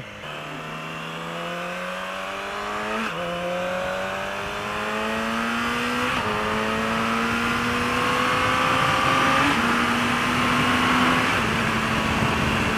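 Yamaha R6 inline-four sportbike engine accelerating through the gears: the engine note climbs steadily, then drops back at each upshift, roughly every three seconds, getting louder overall, with wind rush over the microphone.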